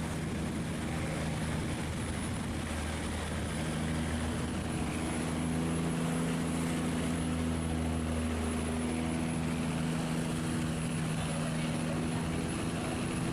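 Boat engine running with a steady low hum, growing louder and stronger from about four seconds in, over a steady rushing noise.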